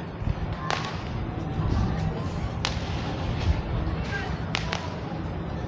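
Four sharp cracks, the last two in quick succession, over a steady low background din.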